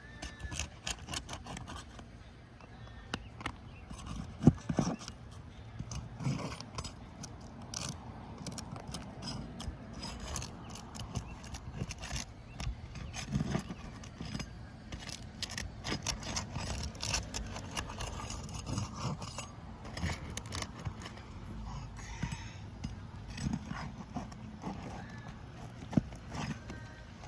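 A roof snake and hammer working under asphalt shingles to pull the roofing nails: irregular metal scrapes, clicks and taps, with one sharp knock about four and a half seconds in, over a steady low rumble.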